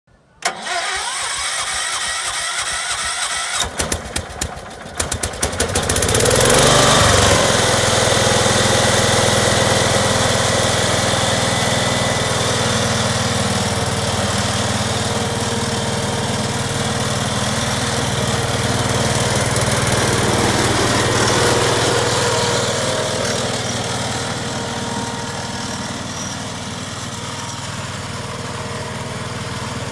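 Case Ingersoll garden tractor engine being cranked in quick, even strokes, catching about six seconds in and then running steadily.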